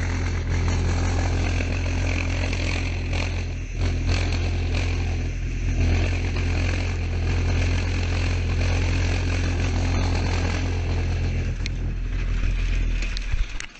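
A boat's engine running steadily with a deep, even hum; it cuts off abruptly near the end.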